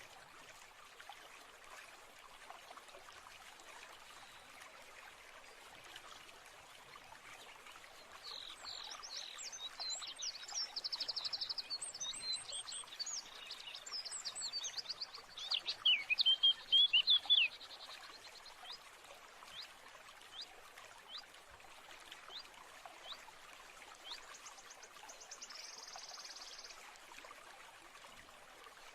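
Running stream trickling steadily with songbirds singing over it: a dense run of varied chirps and trills from about eight seconds in, loudest just before it stops, then scattered single chirps and a short buzzy trill near the end.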